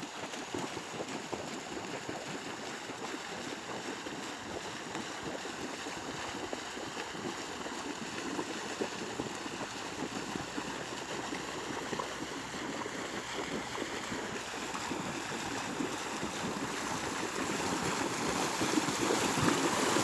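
Steady splashing and rushing of water churned up by runners in water-running training, growing louder toward the end.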